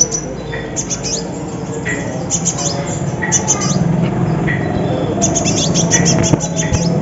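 Sunbirds chirping: quick clusters of high, thin twittering notes coming in several bursts, over a steady low hum.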